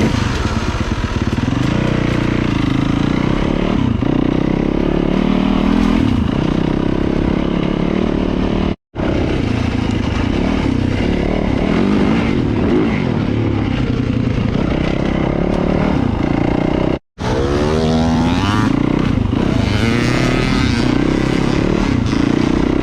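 Dirt bike engine running while riding a trail, its revs rising and falling. The sound cuts out abruptly for a moment twice.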